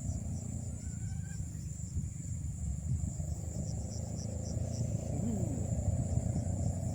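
Night insects, crickets among them, chirping steadily, with a high pulsing chirp at about four a second that fades out after the first second or so and returns near the end. Under it runs a louder, irregular low rumble.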